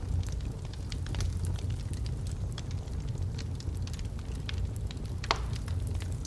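Logs burning in a fireplace, crackling with scattered small pops over a steady low rumble, and one louder pop about five seconds in.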